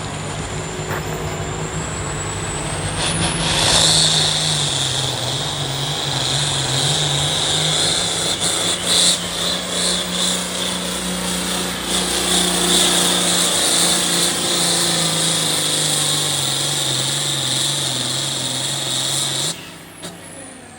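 Modified hot farm class pulling tractor with a turbocharger. The turbo whine rises over the first three seconds, then the engine runs flat out under load with a loud turbo whistle as it drags the sled. The sound drops off suddenly near the end as the pull finishes.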